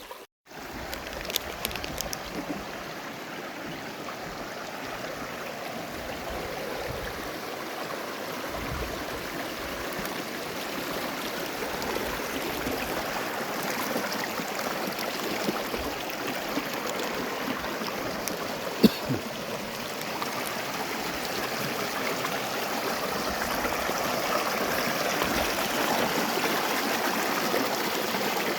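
River water rushing over rocks: a steady, even rush that grows gradually louder, with one sharp click about two-thirds of the way through.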